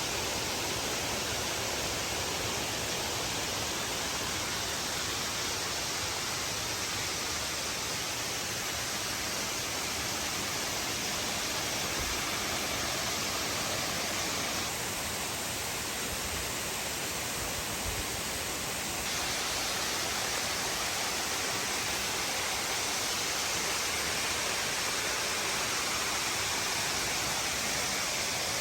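Steady rushing of water from a mountain stream or waterfall, an even hiss with no breaks; it drops slightly for a few seconds midway.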